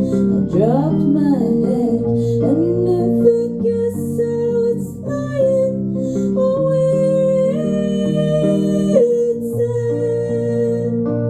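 Live band music led by guitar, with a woman singing.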